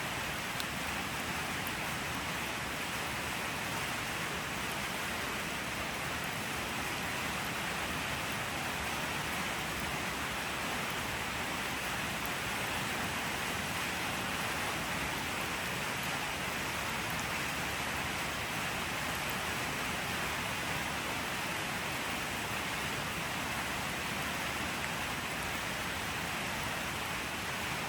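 Steady rain falling without a break, an even hiss with faint scattered drop ticks.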